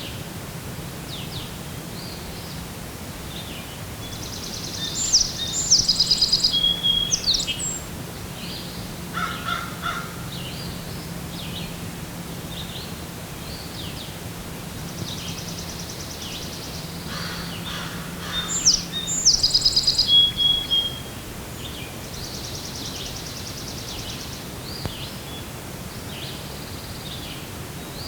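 Wild songbirds singing in the morning, several short calls and trills, with a louder song bout about five seconds in that comes again about twelve seconds later. A low steady hum runs underneath.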